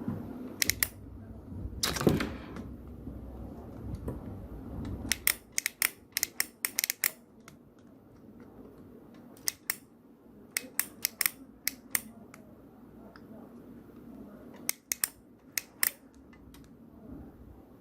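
Sharp little clicks and taps in irregular clusters from hand tools working the microwave's control board while its transformer is desoldered with a soldering iron, with a brief louder rush about two seconds in.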